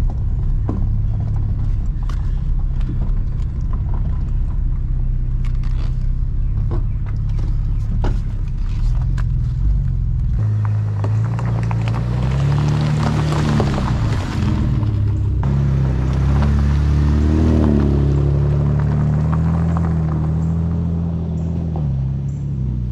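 A 2011 Camaro's 3.6 L V6 running as the car is driven slowly. There is a low rumble with scattered ticks for about the first ten seconds, then the engine note rises and falls and settles into a steady drone.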